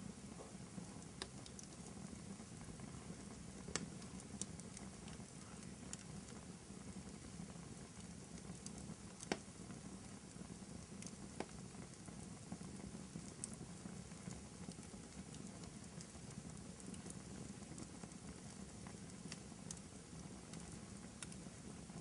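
Wood fire crackling in a fireplace: a low, steady rumble with sharp pops scattered every second or two, the loudest about nine seconds in.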